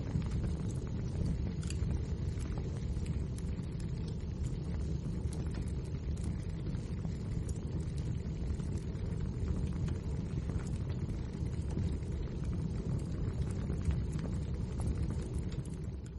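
Wood fire burning: a steady low rumble of flames with frequent small crackles and pops.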